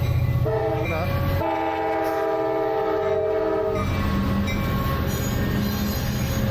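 Multi-tone train horn sounding: a short blast about half a second in, then a longer held chord lasting about two and a half seconds. A steady low rumble of wind on the microphone runs underneath.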